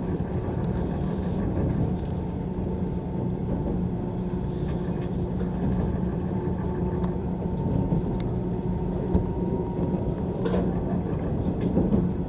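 Steady running noise heard inside a JR East 185 series electric train: a continuous rumble of wheels on rail, with a faint steady tone and scattered light clicks.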